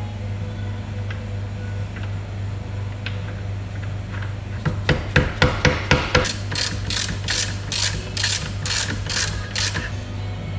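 Click-type torque wrench ratcheting a nut down to 100 foot-pounds: a quick run of sharp clicks about halfway in, then a steady series of ratchet strokes, about three a second, that stop near the end.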